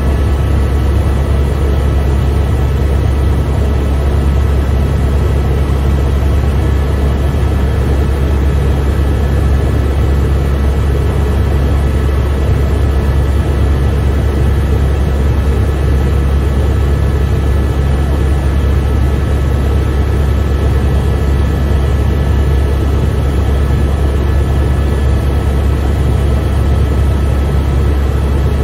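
Helicopter cabin noise in flight: a loud, steady low rotor drone with a thin, steady high whine over it, unchanging throughout.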